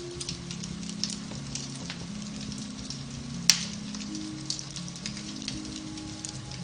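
Beech-wood fire in a fireplace crackling with scattered small pops and one loud sharp pop about halfway through, over soft piano music with held low notes.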